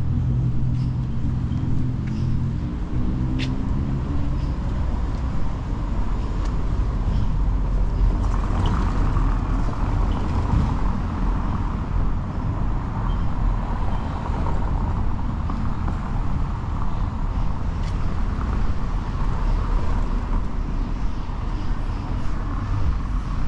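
Street traffic: motor vehicles passing with a continuous rumble of engines and tyres. A steady engine hum in the first couple of seconds fades out, and the tyre noise swells and eases as cars go by.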